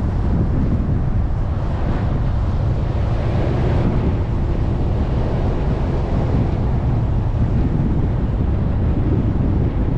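Wind buffeting the microphone over the steady drone of an off-road vehicle driving on desert sand.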